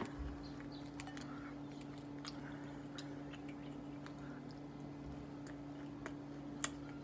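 A person eating fried whiting: faint chewing and mouth sounds with scattered small clicks, one sharper near the end, over a steady low hum.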